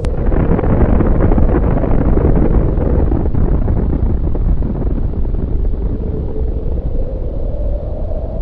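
Deep, loud rumbling roar of a nuclear explosion sound effect. It starts suddenly, is brightest over the first few seconds, then settles into a steadier low rumble.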